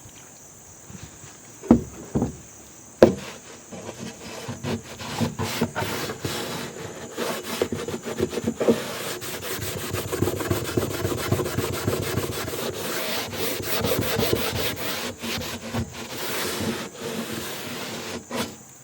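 A rag wiped back and forth over an aluminum camper roof around a vent, cleaning off old lap sealant residue with mineral spirits. A few knocks come about two and three seconds in, then irregular rubbing strokes run on until near the end.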